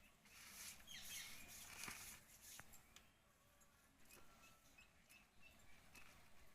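Faint bird chirps: short high notes, one gliding call about a second in, then a quick run of repeated chirps in the second half, over near-silent background hiss.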